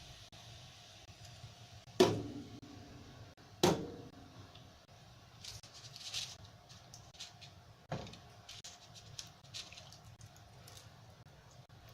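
Hard objects set down or knocked on a table: three sharp knocks, the first two with a brief ringing after them, and a few light clicks in between.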